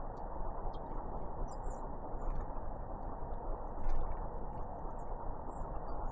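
A few short, thin, high chirps from small tits (great tits and blue tits) at a feeding spot, with scattered light clicks, over a steady low background hiss.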